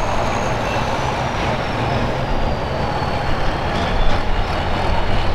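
A tractor-pull tractor's diesel engine running steadily, with a thin high whine that slowly drops in pitch.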